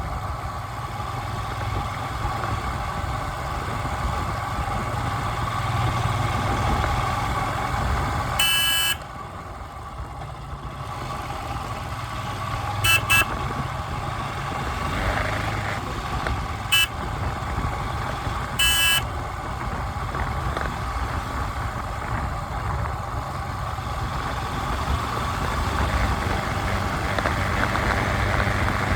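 Steady vehicle traffic noise with a low engine rumble, broken by four short horn honks.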